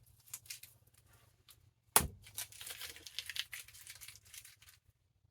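Blue painter's tape being peeled off a book's cover: a sharp knock about two seconds in, then a couple of seconds of crackling and tearing as the tape comes away.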